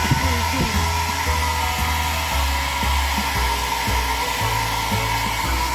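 Hand-held hair dryer blowing steadily while drying a pet's fur after a bath, with a low rumble that comes and goes under the steady whine.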